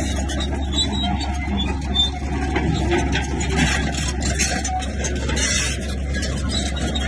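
Komatsu bulldozer's diesel engine running steadily under load, with scattered knocks and scrapes from the machine working stone and dirt.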